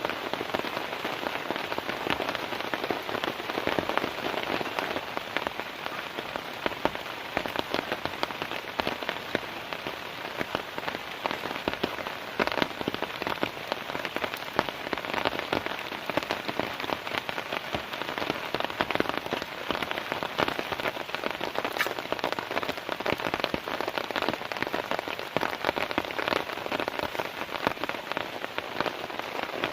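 Heavy rain falling steadily on a tent, a dense run of individual drop hits.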